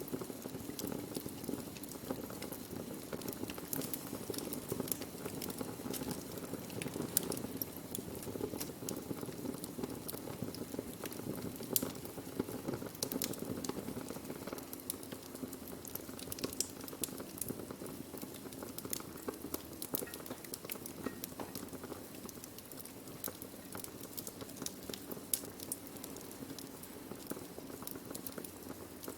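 Burning wood fire: a steady low rush of flame under frequent, irregular sharp crackles and pops.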